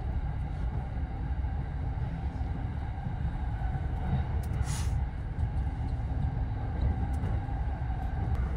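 JR East Tokaido Line commuter train running, heard from inside the passenger car: a steady low rumble of wheels and running gear, with a brief hiss about halfway through.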